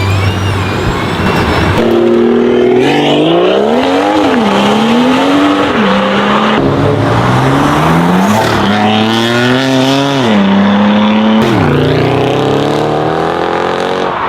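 High-performance car engine accelerating hard through the gears, the revs climbing and dropping back with each of several upshifts.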